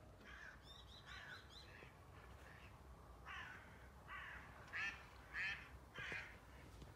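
Harsh bird calls: a quick run of short calls in the first two seconds, then about five separate calls spaced under a second apart, the loudest of them in the last two seconds.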